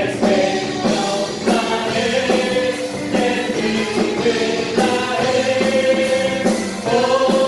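A praise team's voices singing a gospel-style worship song together over instrumental accompaniment with a steady beat.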